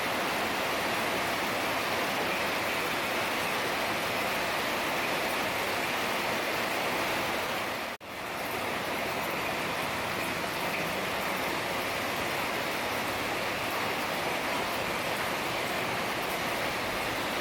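Heavy rain falling, a steady dense hiss. About halfway through it cuts out for an instant and comes back in.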